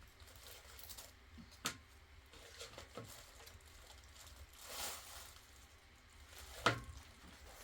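Rustling and handling noises with two sharp knocks, one about a second and a half in and a louder one near the end, and a brief swelling scrape or whoosh in the middle.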